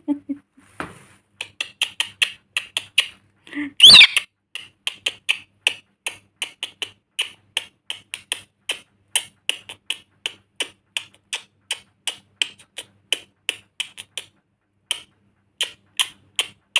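Rapid, steady clicking, about three sharp clicks a second, with one loud shrill call from the lory about four seconds in.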